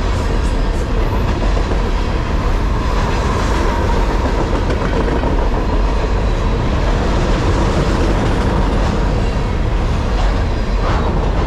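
Freight train's loaded container flatcars rolling past, a steady noise of steel wheels running over the rail.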